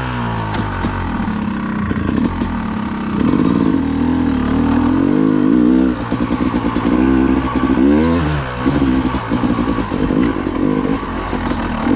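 Yamaha 250 two-stroke dirt bike engine revving up and down as it is ridden, its pitch rising and falling with the throttle.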